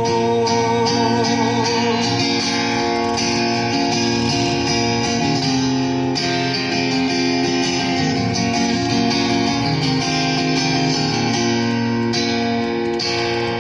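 Guitar music without singing: the instrumental ending of a folk song, with held notes.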